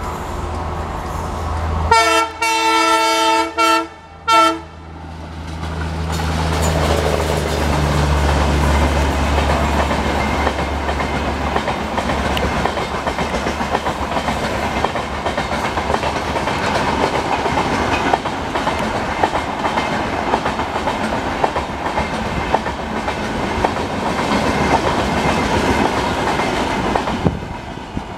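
Diesel locomotive of an Indian Railways express passing at speed: its engine drones and its air horn gives one long blast and two short ones about two seconds in. Then the coaches rush past with a steady clatter over the rail joints, fading near the end.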